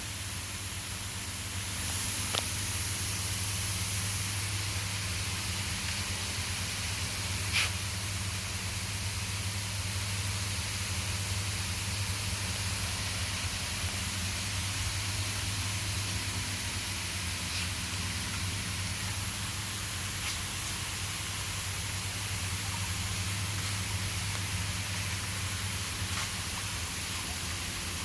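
Four-way misting nozzles spraying fine mist, a steady hiss, with a steady low hum underneath and a few faint clicks.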